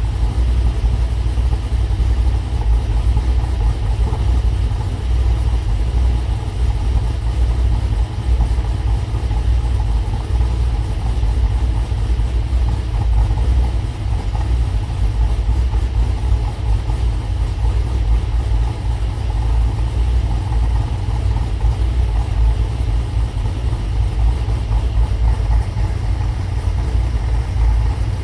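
Pontiac G8 engine with an aftermarket Cammotion camshaft, breathing through long-tube headers, an X-pipe and Hooker Maxflow mufflers, idling steadily with a deep exhaust note after a cold start.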